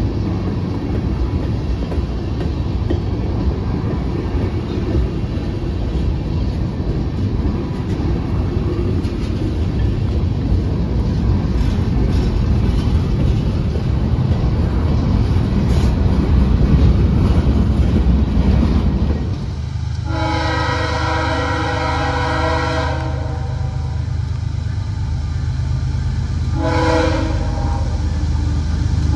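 Freight cars rolling and rattling past on the rails with a heavy, steady rumble. About two-thirds of the way through this gives way to a CSX diesel locomotive's multi-note air horn. It sounds one long blast, then a shorter one, and a third just starting at the end, over the low drone of the locomotive's engine.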